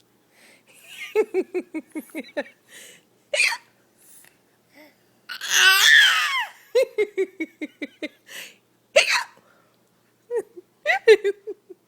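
A baby laughing in repeated bursts of quick rhythmic giggles, with a loud squealing laugh near the middle, between an adult's short, sharp mock hiccup noises.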